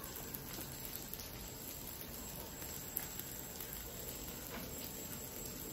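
A dosa frying on a hot dosa pan: a faint, steady sizzle.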